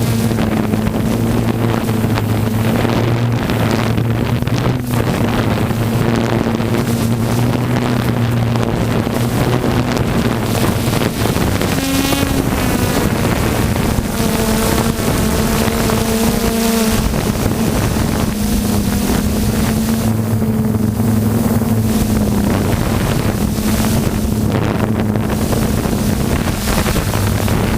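An engine running steadily with a low, even drone that shifts slightly in pitch now and then, with wind buffeting the microphone.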